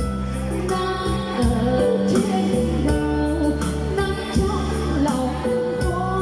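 Live music: an electronic keyboard playing a steady bass and sustained chords, with a singer's voice over it.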